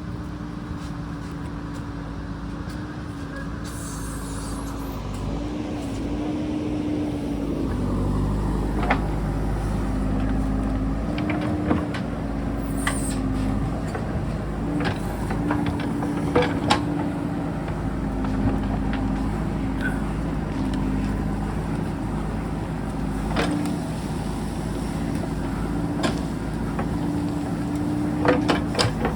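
JCB backhoe loader's diesel engine running under working load, its pitch stepping up and down as it digs, the sound getting louder and heavier about eight seconds in. Sharp knocks sound every few seconds over it, several close together near the end.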